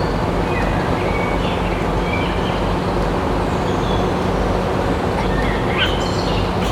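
A steady mechanical running noise with a low hum, with a few short high chirps over it, the clearest near the end.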